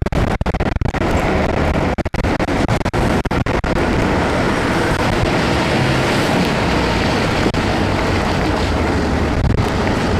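Steady rushing of wind and heavy rain on a chest-mounted camera's microphone while riding an e-bike, with brief cut-outs in the first few seconds and again near the end.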